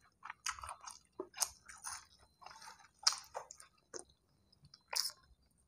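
A man chewing a mouthful of rice and Padang dishes eaten by hand, close to the microphone. The chewing comes as a string of short, irregular smacks and clicks, with louder ones about three seconds in and again near the end.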